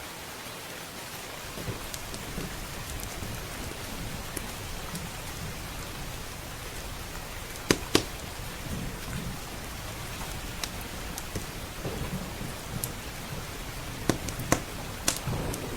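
Steady rain with a low rolling thunder rumble underneath. Sharp pops from a crackling wood fire cut through: two close together about halfway through and three more near the end.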